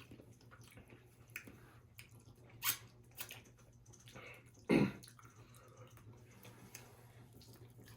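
Quiet chewing of fried chicken over a faint, steady low hum, with two short, louder noises, about three seconds in and again about five seconds in.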